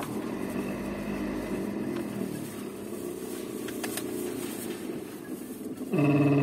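Mercedes-Benz W124 heater blower motor running with an uneven, fluttering whir; about six seconds in it breaks into a much louder steady hum. The humming is the sign of a fault in the blower motor itself.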